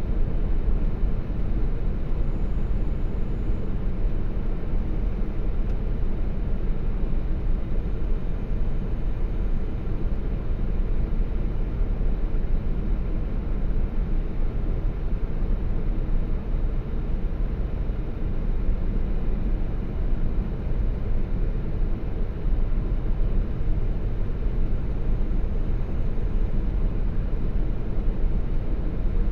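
Steady deep rumble of a truck's engine and tyres on the road, heard inside the cab, with no change in level.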